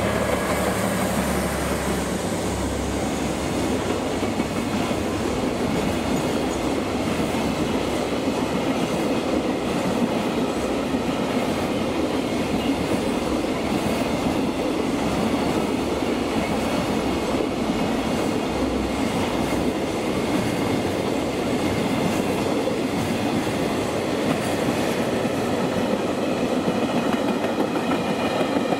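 JR Freight DE10 diesel-hydraulic locomotive passing close, its diesel engine heard for the first few seconds, then a long container freight train of Koki flat wagons rolling by with a steady, continuous noise of wheels on rail.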